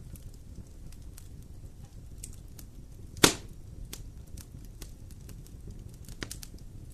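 Bonfire burning: a low rumble of flames with scattered small crackles, one sharp loud pop from the burning wood about three seconds in, and a smaller pop near the end.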